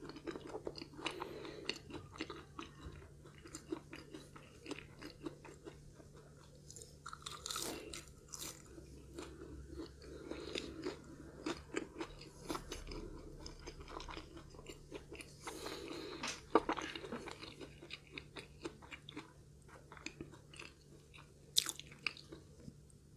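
Close-miked chewing of crispy fried food: irregular crisp crunches and wet chewing, with a louder crunch about two-thirds of the way through.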